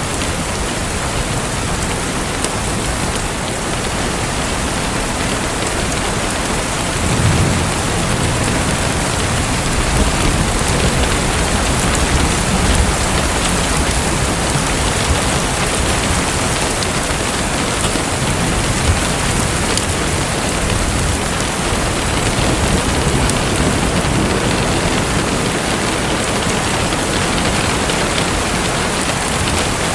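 Steady, dense hiss of water, like heavy rain falling on a surface, with low rumbles swelling now and then: about seven seconds in, again around ten to thirteen seconds, and near nineteen seconds.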